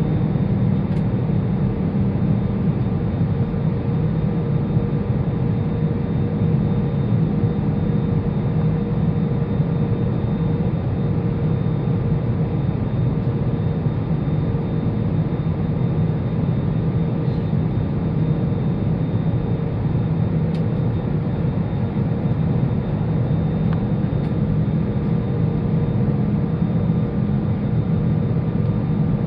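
Airbus A320-200's cabin in flight: a steady drone of its CFM56 turbofan engines and airflow, with a deep hum and a few faint steady tones over it.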